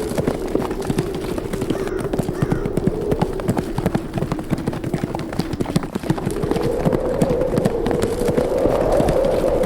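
Horses running, a dense irregular patter of hoofbeats, over a howling wind that wavers in pitch, sinking in the middle and rising again near the end.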